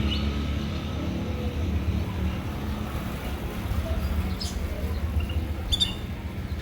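Small cage birds giving a few short, high chirps over a steady low rumble of road traffic.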